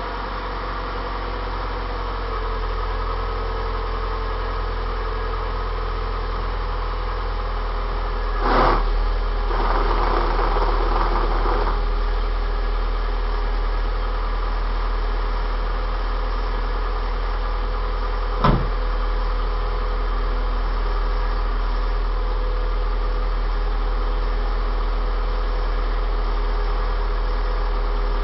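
Hyundai Tuscani's four-cylinder engine idling steadily on the first start-up after a 4-1 exhaust header was fitted. A short burst of noise comes about eight and a half seconds in, and a sharp click near eighteen seconds.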